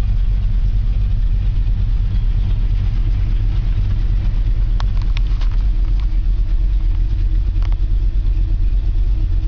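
Ford 289 V8 with a four-barrel carburettor and Edelbrock headers idling steadily, heard from inside the car's cabin, on its first cold start after a year and a half of sitting.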